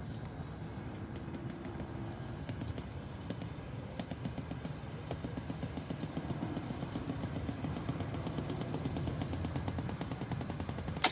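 Insects trilling high-pitched in bursts, three long ones of about one to two seconds, over a low steady rumble. A sharp click comes at the very end.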